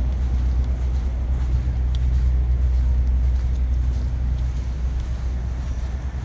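Big-rig diesel engine running steadily at idle, a low, even engine sound.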